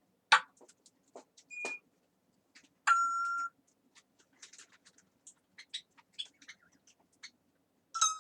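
Pet parrot making a string of short clicks and chirps, with a brief high whistle and, about three seconds in, a flat half-second beep-like whistle, the loudest sound.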